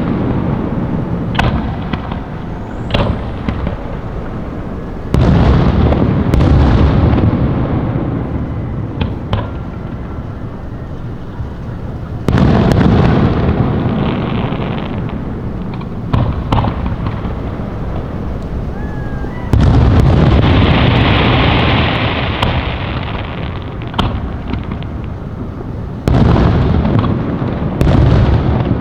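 Fireworks going off: about six heavy booms a few seconds apart, each trailing off in a long rumble, with sharp pops and cracks in between. A hissing crackle comes in about two-thirds of the way through.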